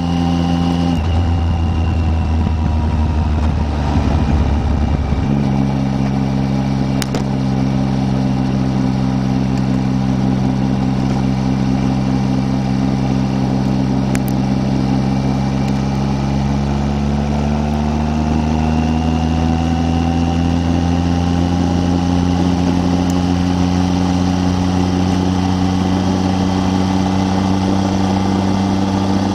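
Triumph Tiger 800's three-cylinder engine running under way. Its steady note breaks up about a second in and settles again about five seconds in, then rises gradually in pitch about two-thirds of the way through as the bike speeds up.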